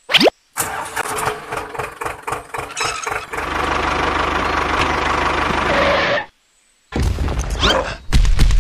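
Engine cranking with an irregular clatter, then catching and running steadily for about three seconds before cutting off abruptly. A short, different sound follows near the end.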